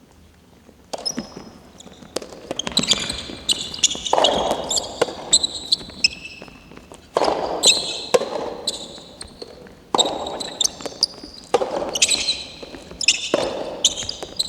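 Soft tennis rally in a gym: the soft rubber ball popping off the rackets and bouncing on the court, sneakers squeaking on the floor between shots, with the hall's echo after each hit. The play starts about a second in.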